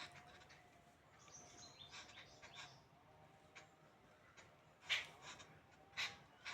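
Small birds chirping faintly in short, separate calls, the two loudest about five and six seconds in.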